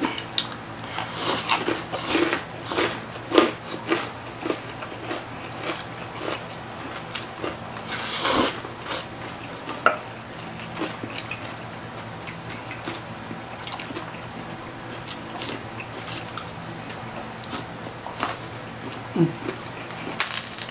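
Close-up chewing and crunching of crispy pata, deep-fried pork knuckle with crackling skin, as two people eat. The sharp crunches come thick in the first half, the loudest about eight seconds in, then thin out to softer chewing.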